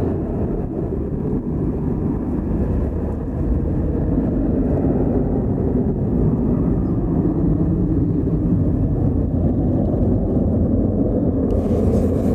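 Jet engine noise of a departing United Boeing 757: a steady low rumble that grows louder about three and a half seconds in.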